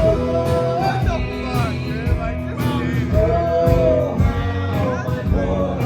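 Live country band performance, guitar-backed, with a male voice singing long held notes that bend in pitch.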